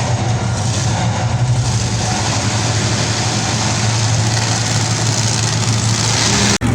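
Monster truck engine running loud and steady, a little stronger toward the end, then cut off suddenly just before the end.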